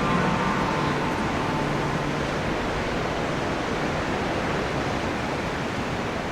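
Steady rushing of strong wind and ocean surf.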